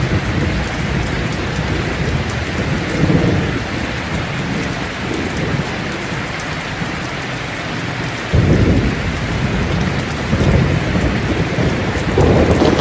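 Steady rain with thunder rumbling. A low roll of thunder swells in suddenly about eight seconds in and builds again near the end.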